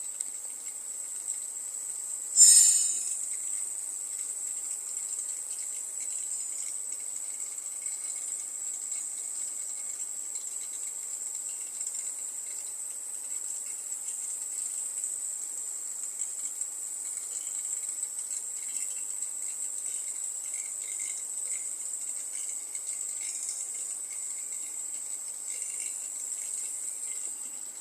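An 11 kV coil at a power substation giving off a steady, high-pitched hissing whine. There is one sharp crack about two and a half seconds in.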